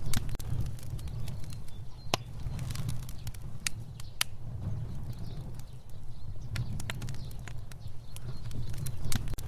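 Fire burning: a steady low rumble of flames with irregular sharp crackles and pops, a few of them loud.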